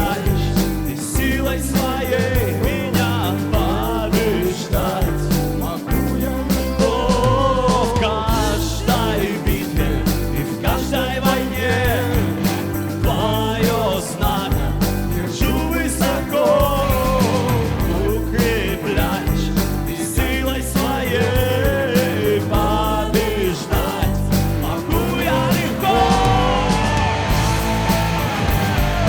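Worship band playing a rock-style song: a sung melody over a steady bass and drum beat.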